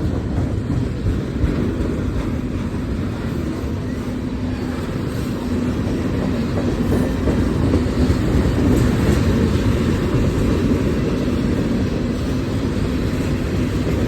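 Freight train cars rolling past, their steel wheels running steadily on the rails.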